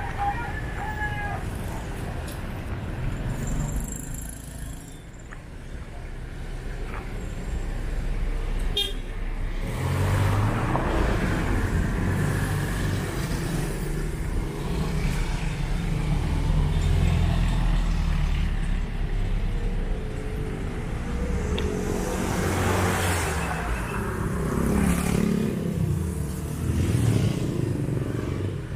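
Street traffic at close range: car and motorcycle engines running and passing, with a vehicle horn tooting.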